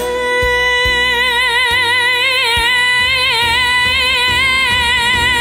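A female vocalist holds one long note with vibrato over a band accompaniment that has regular low bass and drum hits.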